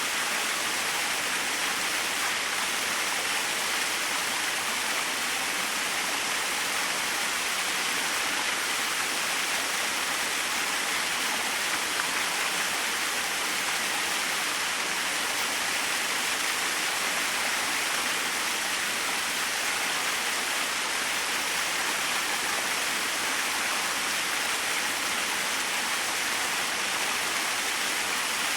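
Small waterfall splashing steadily, an even rushing hiss of falling water with no pauses or changes.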